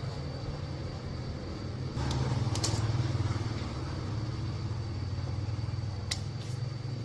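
Motorcycle engine running steadily with a low, even drone, picking up for a second or two about two seconds in, with a few sharp clicks over it.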